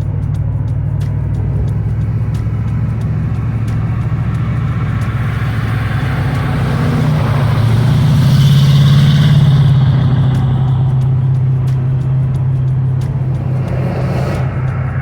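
A car engine running steadily at idle, swelling briefly with a light rev about eight seconds in, then settling back.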